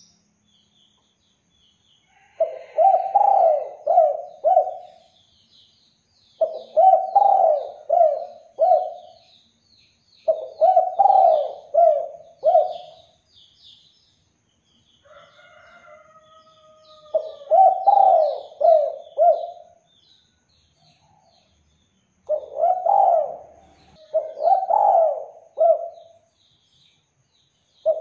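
Spotted dove (derkuku) cooing: repeated phrases of three or four low, rhythmic coos, one after another with short pauses between. Faint high chirps of small birds run underneath, and a quieter drawn-out gliding call comes about halfway through.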